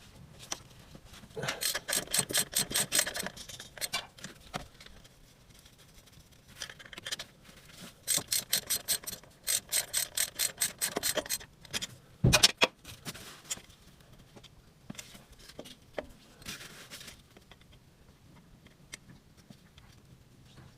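Ratchet wrench clicking in quick runs of about eight clicks a second as fasteners are worked on the engine. There are two longer runs, with a single loud knock about twelve seconds in.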